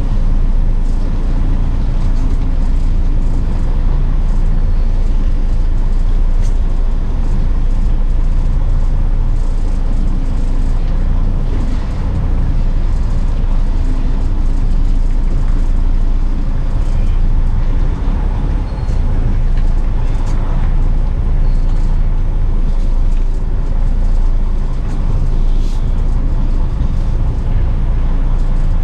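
Semi truck running, a loud steady low drone of engine and road noise.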